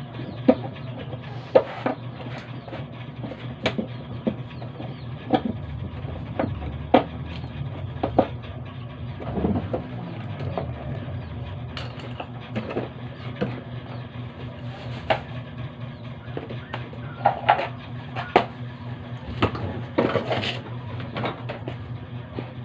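Scattered knocks and clanks of tools and metal parts being handled while a washing machine is worked on, over a steady low hum.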